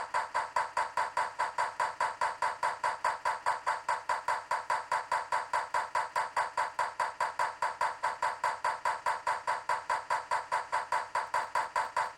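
Rapid, perfectly even clicking, about five clicks a second, that does not change.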